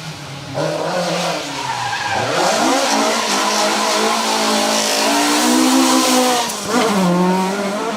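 A Ford Escort MK2 rally car's engine revving hard under acceleration, its pitch climbing through the gears with two sharp drops, about two seconds in and near seven seconds, where it changes gear or lifts off. A broad hiss of tyre noise runs underneath.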